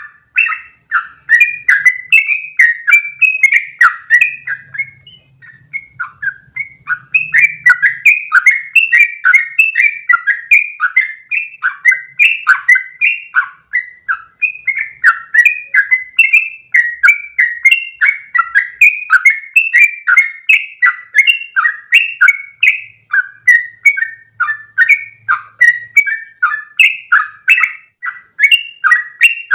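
Yellow-vented bulbul (trucukan) singing a long, fast run of quick chirping notes, the 'ropel' song, pausing briefly about five seconds in.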